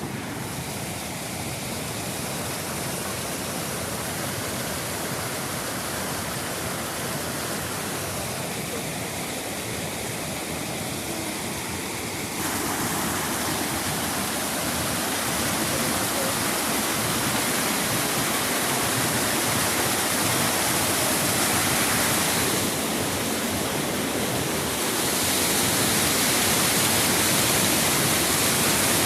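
Water rushing steadily over the Ahvenkoski waterfall cascades, a constant even noise that steps abruptly louder about twelve seconds in and again near the end.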